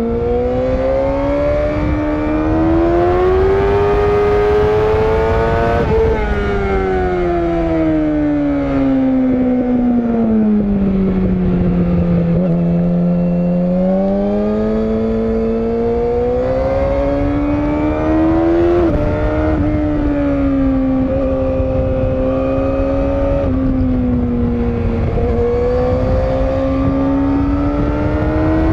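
Yamaha YZF-R6 (RJ27) 600 cc inline-four engine under way, the revs rising and falling: it climbs for about six seconds, winds down slowly for several seconds, then picks up again and wavers up and down through the rest.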